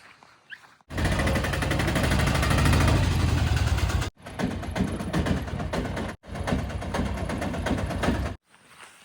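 Heavy diesel machinery engine running close by, with an even pulsing beat, heard in three abruptly cut stretches of about three, two and two seconds, starting about a second in.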